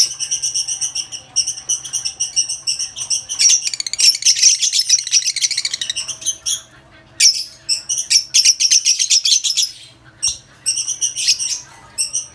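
Lovebirds chattering: a fast run of shrill, high chirps in dense bouts, broken by two brief pauses.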